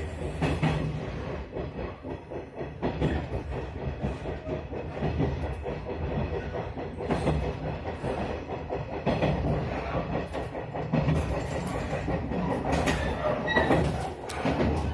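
A train running along the rails, heard from inside the front car: a steady low rumble with irregular clicking and clattering from the wheels on the track.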